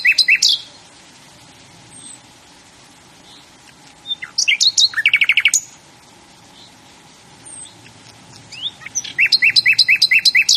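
A songbird singing: three short songs of rapid repeated notes, one every four to five seconds, with a few faint chirps between them.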